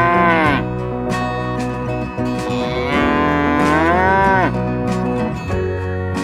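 An animal calling twice over acoustic guitar music. The first call is short, right at the start; the second, longer call begins about two and a half seconds in. Each rises and then falls in pitch.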